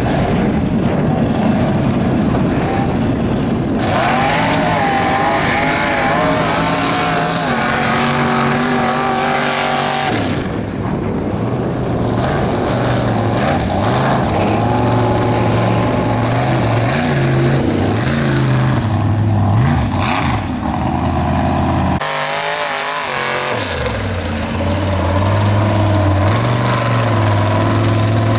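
Mega truck engine revving hard at full throttle, its pitch rising and falling as it churns through mud, with abrupt shifts in tone a few times.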